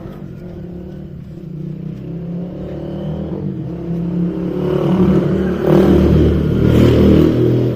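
A motor vehicle's engine running and revving, growing steadily louder and loudest near the end.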